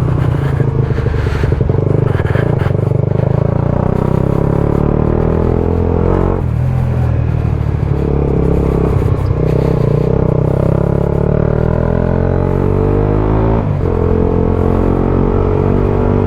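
Single-cylinder 125cc four-stroke motorcycle engine running through a Mivv GP Pro aftermarket exhaust while riding, the revs climbing under acceleration. The engine note breaks briefly twice for upshifts, about six seconds in and again about fourteen seconds in, then rises again.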